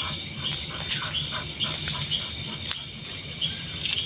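Steady high-pitched chorus of crickets at night. A short chirping call repeats two or three times a second, stopping about two and a half seconds in.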